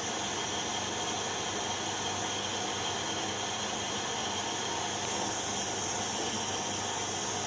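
Steady background hiss with faint steady tones in it; it gets brighter in its upper range about five seconds in. No distinct handling or tool sounds stand out.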